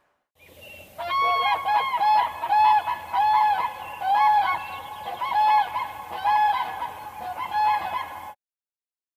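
A large bird honking in a repeated series, about a dozen arching nasal calls roughly one every half-second to second, starting about a second in and cutting off abruptly near the end.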